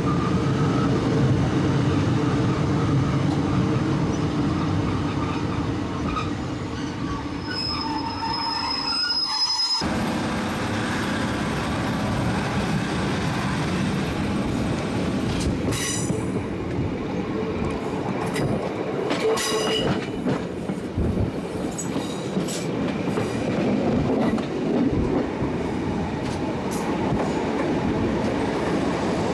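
Diesel train running along the track, heard from on board: steady wheel-and-rail noise, with a thin high wheel squeal that stops suddenly about ten seconds in, and a few sharp clicks later on.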